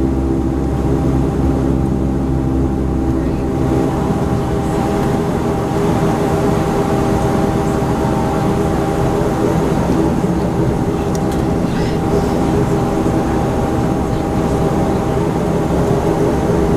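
Bombardier Q400's Pratt & Whitney PW150A turboprop engines running, heard from inside the passenger cabin: a steady drone with several held tones over a low rumble.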